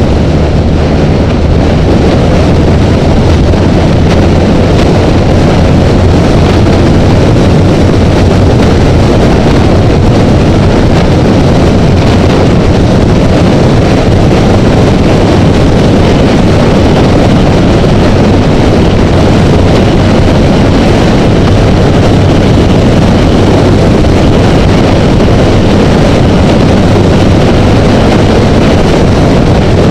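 Loud, steady wind rush on the camera at freeway speed, with the Honda Rebel motorcycle's engine droning evenly beneath it.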